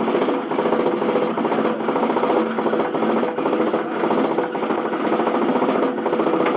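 B&M inverted roller coaster's chain lift running under the train: a fast, steady mechanical rattle with a constant hum.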